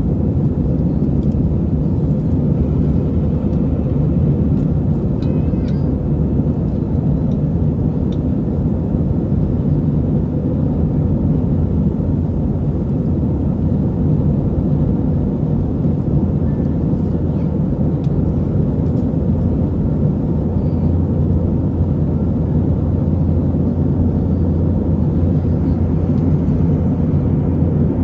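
Airbus A320-200 jet engines and airflow heard from inside the passenger cabin: a loud, steady, low drone with no break.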